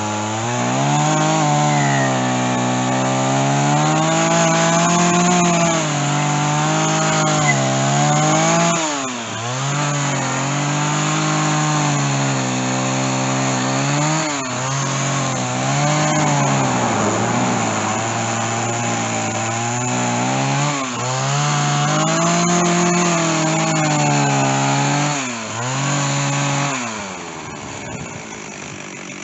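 Stihl chainsaw with a dull chain cutting through white oak, its engine speed sagging and picking up again several times as the bar bites into the wood. Near the end it drops off the throttle and the cut stops.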